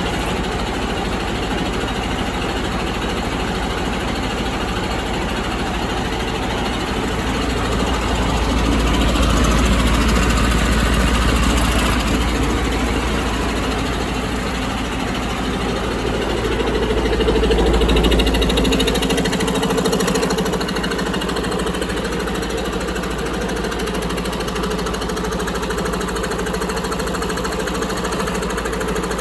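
2019 Detroit DD15 inline-six diesel engine running with a steady diesel clatter, growing louder twice for a few seconds before settling back.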